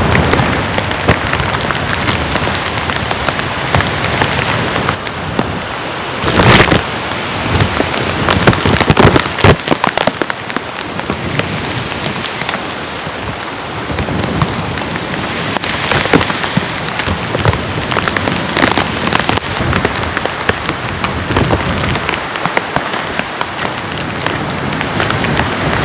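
Heavy rain falling, with dense drops striking a surface. There is a louder short burst about six and a half seconds in.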